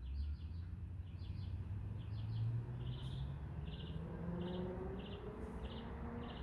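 Red-bellied woodpecker calling: a series of short rolled notes, each a quick rattle of a few pulses, repeated about twice a second. A low steady hum runs underneath.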